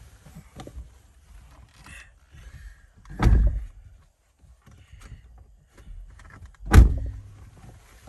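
Two dull thumps, about three and a half seconds apart, with light knocks and rustling between them, as things are moved about inside a parked car.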